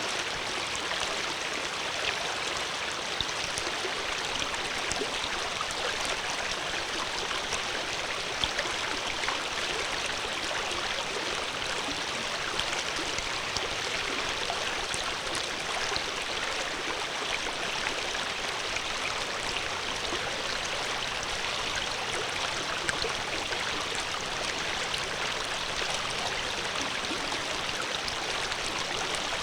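Water flowing steadily, a constant even rush with small splashes and gurgles scattered through it.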